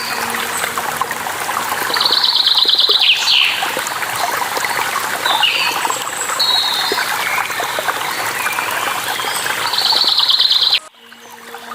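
Running water, a steady trickling rush, with several birds singing over it: chirps and whistles, and a rapid trill about two seconds in and again just before the end. Near the end the sound cuts out abruptly and then fades back in.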